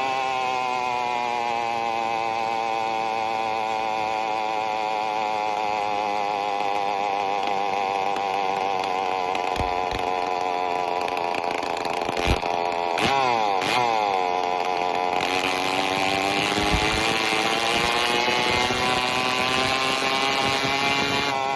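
Phantom 85cc two-stroke motorized-bicycle engine running with no exhaust pipe, its pitch slowly sagging, then climbing as it picks up speed. About thirteen seconds in the pitch drops quickly and swings back, then climbs steadily again.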